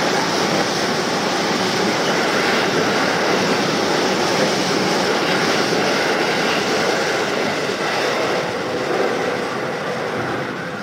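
A train running through the station: a loud, steady rumble and rush of wheels on rails, easing a little near the end.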